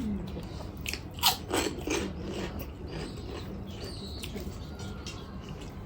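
A person eating close to the microphone: biting and chewing with a run of crisp crunches, the loudest about one and a half seconds in.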